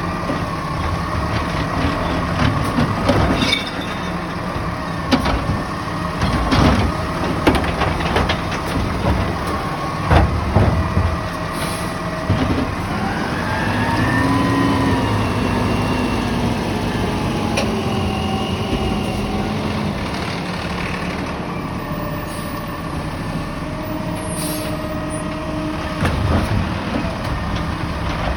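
Garbage truck at work: diesel engine running, with several sharp clanks and bangs in the first half and a whine that rises and falls in pitch around the middle.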